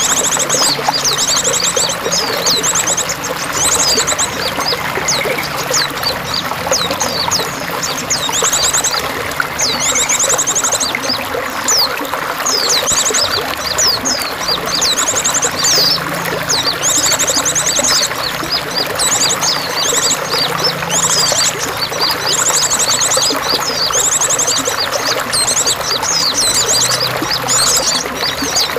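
Water running and splashing steadily, with songbirds chirping over it in short, fast, high trills and quick whistled notes repeated again and again.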